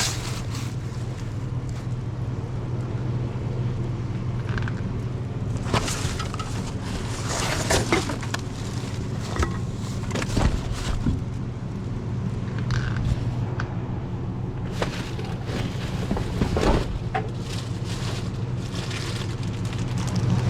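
Steady low drone of a moving vehicle's engine and road noise, with scattered short knocks and rattles.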